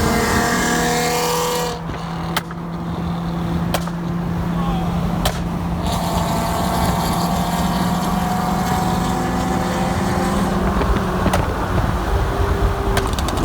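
Car on the move at a steady speed: a constant engine drone over road noise, with a few sharp clicks.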